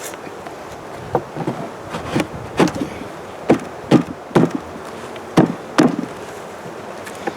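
Irregular knocks and taps of beehive frames and gear being handled, about a dozen over five seconds, over a steady hum of honey bees.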